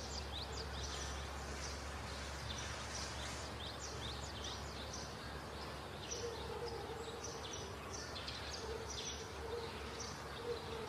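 Birds chirping, many short quick calls one after another, over a steady low background hum.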